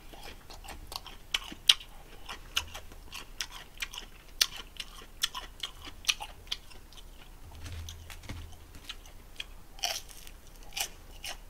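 A person chewing food close to the microphone, with many small irregular crunches and mouth clicks. Just before ten seconds in comes a louder, crunchier bite into a crispy deep-fried seaweed roll (gimmari).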